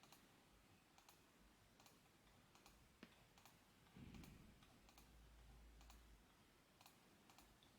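Near silence with faint, scattered clicks, about ten of them at irregular intervals.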